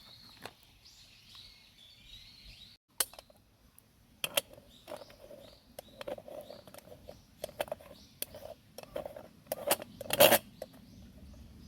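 Cooking utensils and cookware clinking and knocking as they are handled, in irregular sharp taps with a short ring, the loudest cluster near the end. Birds chirp in the first few seconds.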